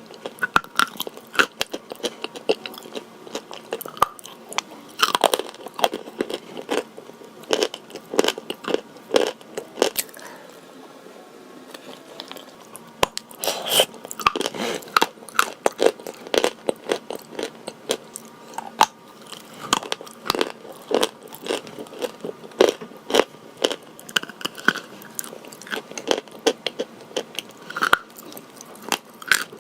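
A person biting and chewing crunchy white chalk with a blue Uzbek paste, close to the microphone: a dense run of sharp crunches and crackles. A quieter lull of about three seconds comes around ten seconds in, then the crunching resumes.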